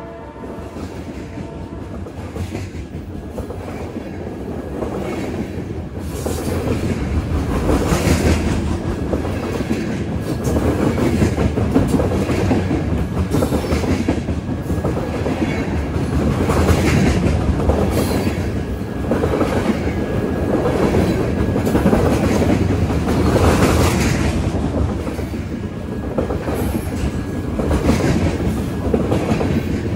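Freight train of covered hopper cars carrying potash rolling past close by: steel wheels clack over the rail joints again and again over a steady rumble. It grows louder over the first several seconds.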